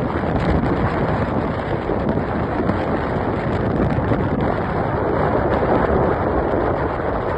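Steady rushing wind noise on the microphone aboard a boat at sea, with the boat's running and water noise mixed underneath.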